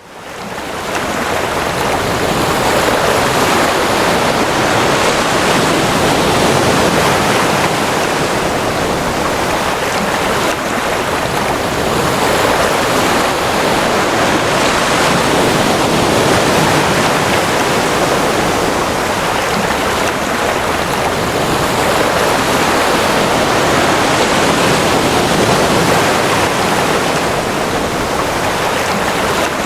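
Ocean waves: a continuous wash of surf that fades in over the first second, then stays steady with slow, gentle swells and no distinct crashes.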